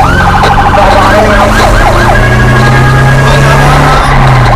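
Whelen electronic emergency siren switching tones: a rapid warbling yelp, then a few quick up-and-down sweeps, then a steady held high tone for the last couple of seconds. Under it, the vehicle's engine runs with its pitch slowly rising, then dropping near the end.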